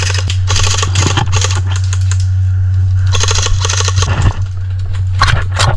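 Airsoft guns firing on full auto: two long bursts of rapid clicking rattle, then a few single shots near the end, over a steady low hum.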